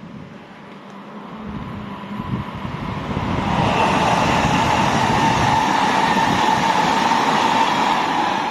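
Class 800 IET train approaching and passing at speed. The rush builds over about three seconds to a loud, steady level with a steady high hum running through it, and starts to die away at the end.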